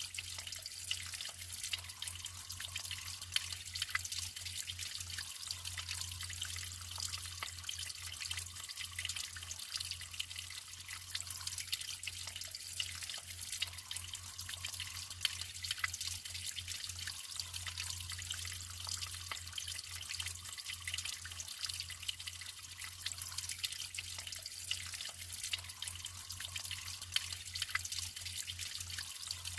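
Natural water flowing steadily, a continuous trickling splash dotted with many small drips and plops.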